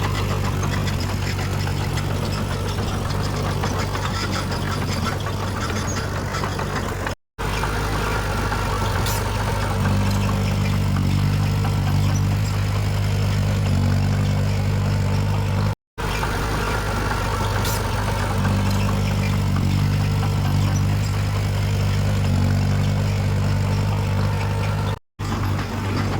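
Diesel engine of heavy earthmoving machinery running steadily, with a low, even hum. The sound drops out to silence for a moment three times, about seven, sixteen and twenty-five seconds in.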